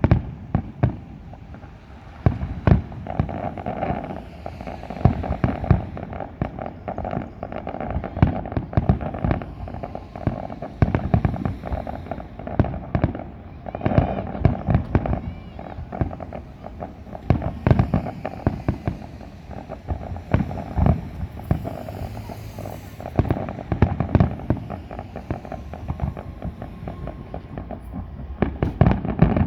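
Large fireworks display going off in a continuous, irregular barrage of sharp bangs, several a second, with no let-up.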